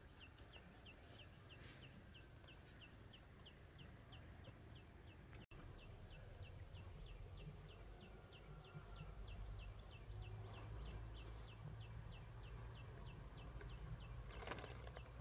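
Faint, steady series of short high chirps, about three a second, from a bird calling over and over, with a low rumble of wind or handling underneath.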